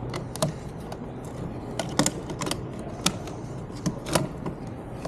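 Irregular plastic clicks and taps from handling a store demo VR headset, about a dozen over a few seconds, over a steady background hum.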